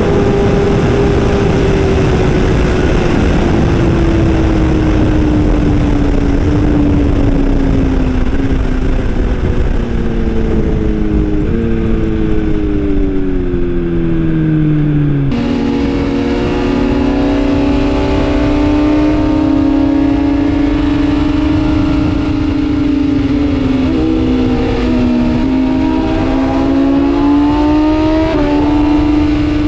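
Sport-bike engine running at high revs, its pitch sliding steadily down for about fifteen seconds as the bike slows. After an abrupt cut it holds a steady high pitch, with small dips and rises near the end, over a constant rushing noise.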